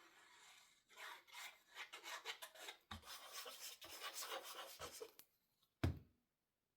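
Scratchy rubbing of hands and paper on a crafting desk, a run of short strokes with a few light knocks, followed by a single thump about six seconds in.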